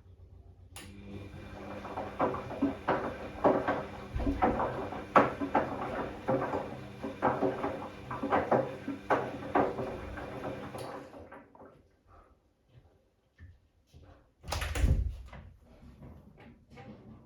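Bosch Classixx 6 washing machine turning its drum at the start of the cycle, during the load-sensing phase. The motor hums with a faint high whine while the drum and laundry clunk and knock irregularly. The drum stops about 11 seconds in, and a single heavy thump follows a few seconds later.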